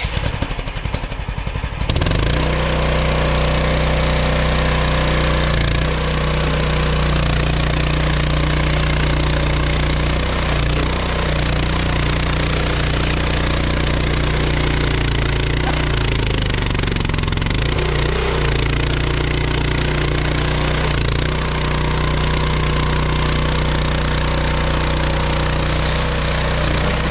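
EGN EG360 mini skid steer's engine starting up and settling into a steady run, catching about two seconds in; around the middle the engine note briefly sags and recovers.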